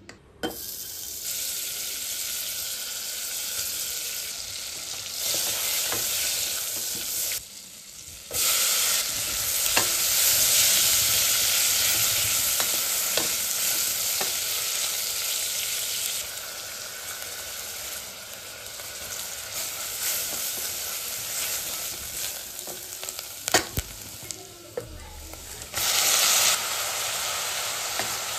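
Mutton pieces and onion sizzling in a hot pressure-cooker pot, with a spoon clicking against the metal now and then as they are stirred. Near the end a liquid is poured in from a pan and the sizzle jumps louder.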